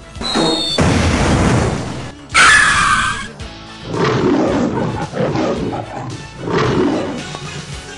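Music with added comedy sound effects: a short high whistle near the start, a loud noisy burst, and the loudest, a shrill cry about two and a half seconds in, followed by quieter mixed sounds.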